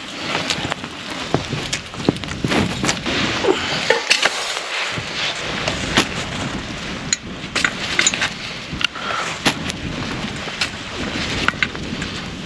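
Snow melting in a hot pot, crackling and sizzling with frequent sharp pops.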